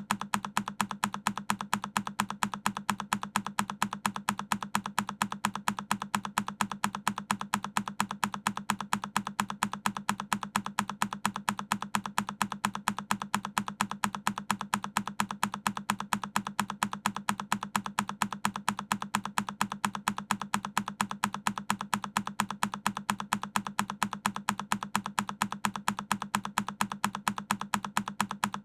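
A single key on a Keychron K10 mechanical keyboard pressed over and over at an even pace, about three clicks a second, each press sounding the same.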